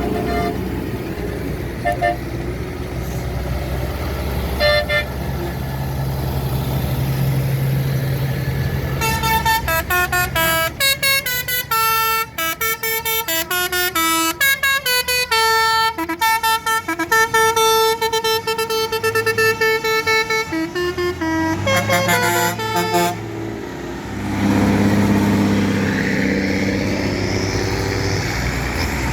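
Tractor engines running, then from about nine seconds in a musical vehicle horn plays a quick tune of short notes stepping up and down in pitch for about fourteen seconds. Engine sound comes up again near the end.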